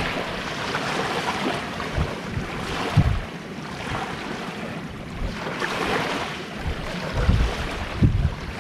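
Sea waves washing onto the shore in slow, repeated surges, with gusts of wind buffeting the microphone now and then.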